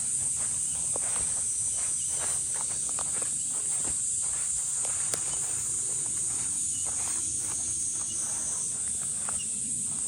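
A steady high-pitched drone of insects, with footsteps rustling through grass.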